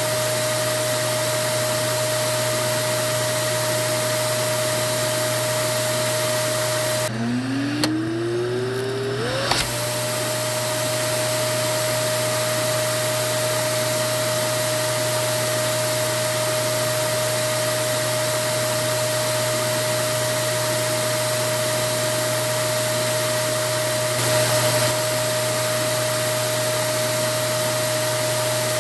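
Vacuum cleaner motor running steadily, a constant rushing noise with a steady whine. About seven seconds in the sound briefly drops away and the motor spins back up, its whine rising in pitch to full speed over about two seconds, with a couple of small clicks.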